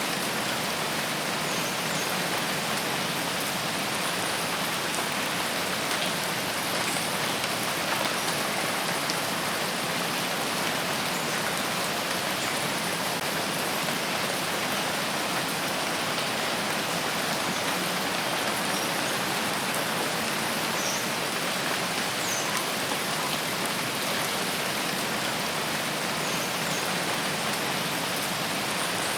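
Steady, even rain falling in a forest, a continuous hiss of drops on foliage and ground.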